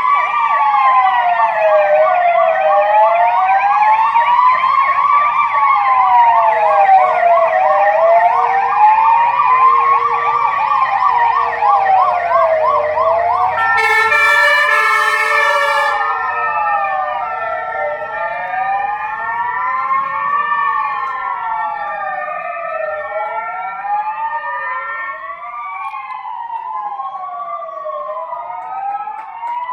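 Several emergency-vehicle sirens of passing police cars and fire trucks wailing together, their pitches sliding slowly up and down and overlapping, one with a fast warble in the first half. About halfway through, a loud horn blast lasts about two seconds, and the sirens then slowly grow fainter.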